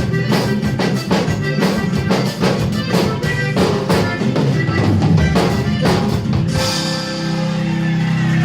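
Live band music with a drum kit beating a steady rhythm over bass and guitar; about two thirds of the way through the drums stop and a held chord rings on.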